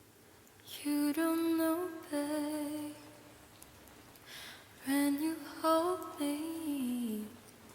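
A woman humming a slow, wordless melody in two phrases, with an audible breath between them. The second phrase slides down in pitch at its end.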